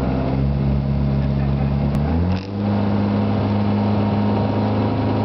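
Citroën AX GTI rally car's four-cylinder engine, heard from inside the cabin, running steadily while the car waits at the start. About two and a half seconds in, the revs briefly dip, then step up to a higher steady pitch and are held there, just after a single sharp click.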